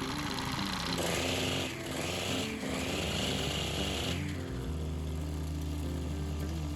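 Honda GX35 brush cutter's small four-stroke engine running at high throttle. It dips briefly twice, then drops back about four seconds in. Background music plays underneath.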